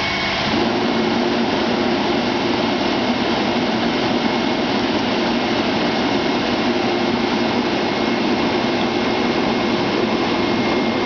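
Heavy truck engine running steadily at raised revs, with a thin high whine over it; the sound steps up slightly about half a second in.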